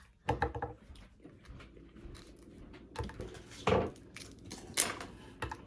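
Scattered cracks and clicks of blue crab shell being broken apart and picked, a few sharp snaps about half a second in, around three seconds and near five seconds.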